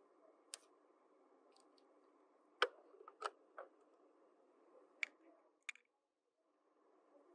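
Light clicks and taps of small plastic toy pieces being handled and set down, about six in all, the loudest about two and a half seconds in, over a faint steady hiss. The sound drops out briefly near the end.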